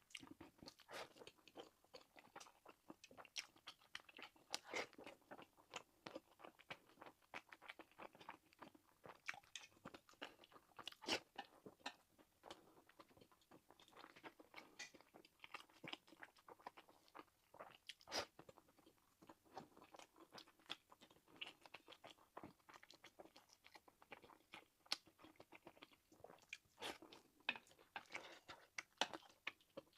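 Quiet, close-miked chewing and biting of fried rice and sausage: irregular wet clicks and crunches, with a few sharper bites standing out.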